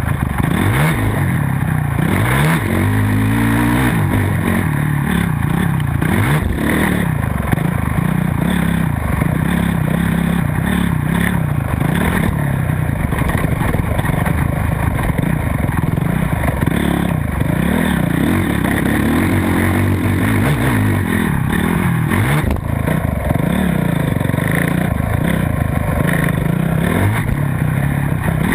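Motocross dirt bike engine racing around the track, its pitch climbing hard and dropping again every second or two as the throttle opens and closes through shifts and corners.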